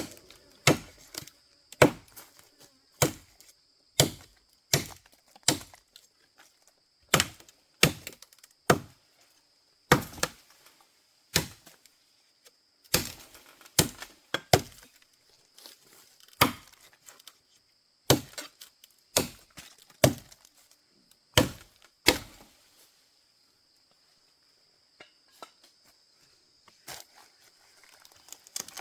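A tool striking wood, roughly one blow a second, about twenty sharp strikes that stop about 22 seconds in and give way to a few faint knocks. Crickets trill steadily behind them.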